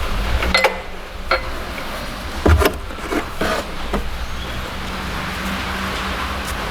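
Irregular metallic clicks and knocks of tools and a just-removed belt idler roller and its bolt being handled, clustered in the first four seconds with the loudest knock about two and a half seconds in, over a steady low hum.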